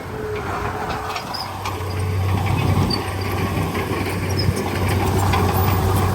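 Diesel engine of heavy earthmoving machinery running steadily with scattered clanks, a little louder from about two seconds in.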